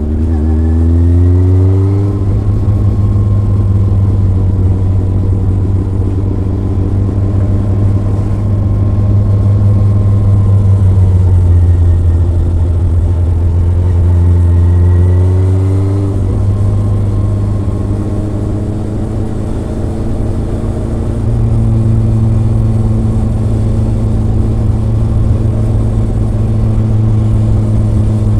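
Kawasaki ZRX inline-four engine and exhaust heard from the bike while riding. The pitch climbs under acceleration and drops back suddenly twice, about two seconds in and again just past halfway, as it shifts up a gear, then settles and rises again.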